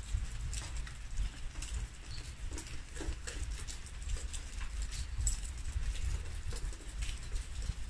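Light rain and dripping water pattering in scattered, irregular clicks, over a steady low rumble of wind on the microphone.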